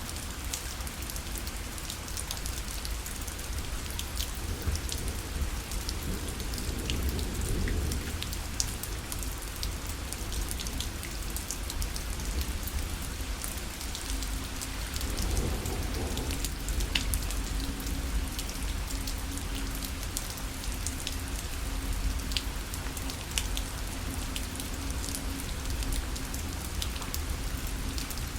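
Steady rain falling on a parasol, with many separate drops ticking on the fabric over a low rumble.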